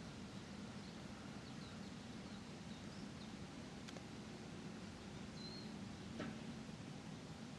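Faint outdoor park ambience: a steady low hum of distant traffic, with small birds chirping briefly and high-pitched a few times. Two faint clicks stand out, one about halfway through and one near the end.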